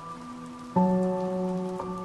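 Slow, soft piano music holding chords, with a new chord struck a little under a second in, over a steady background of falling rain.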